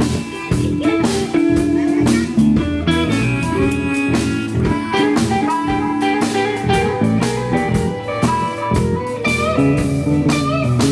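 Live rock band playing an instrumental jam: guitar lines over bass and drums, with no singing.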